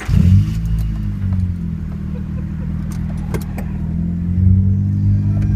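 A car engine starts up abruptly and runs at a steady low idle, getting slightly louder about four and a half seconds in.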